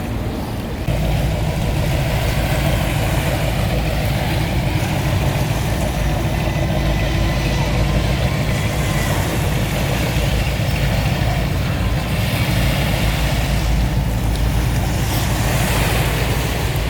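An engine running steadily with a low rumble that comes up about a second in and holds.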